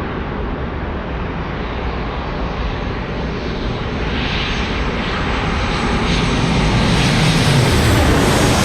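Jet airliner engines, close by, growing steadily louder, with a high sweeping whine coming in near the end.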